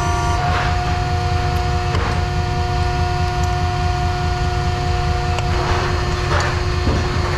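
Heavy machinery running steadily: a low, pulsing engine rumble with a steady whine over it and a few brief swells of hiss.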